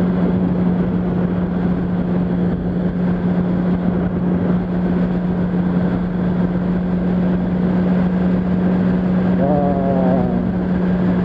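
Yamaha R1's inline-four engine running at a steady cruising speed, holding one even drone, with wind rushing over the microphone.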